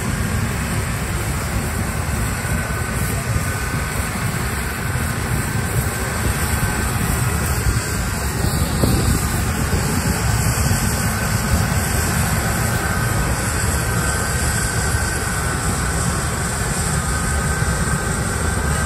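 Large harvest machinery running steadily: a deep, even engine drone with a faint whine above it.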